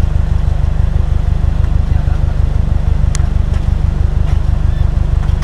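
2015 Subaru WRX STI's turbocharged 2.5-litre flat-four idling with the car standing still, a steady low rumble with an even pulse, heard from inside the cabin.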